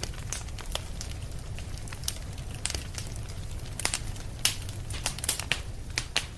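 Wood fire crackling in a fireplace: irregular sharp pops and snaps, several louder ones clustered a little past the middle, over a steady low rumble of the flames.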